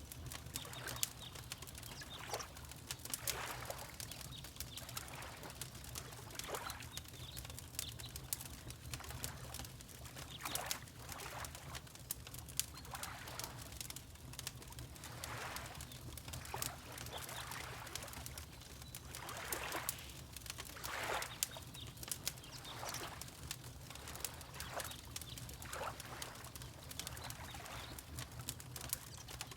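Fireplace crackling with many small irregular pops, mixed with water lapping in soft, uneven swashes every second or two, over a steady low hum.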